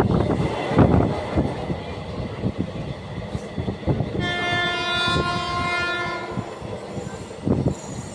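Indian Railways train running past, its wheels knocking over rail joints, with the horn sounding once for about two seconds, about four seconds in.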